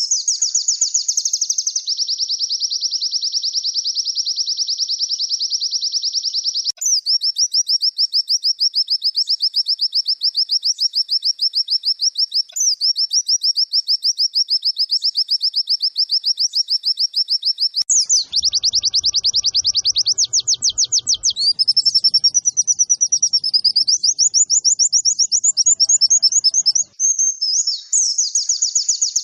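Recorded song of a white-eye (pleci): a long, high, rapid twittering trill of fast repeated notes, broken only by a few brief pauses.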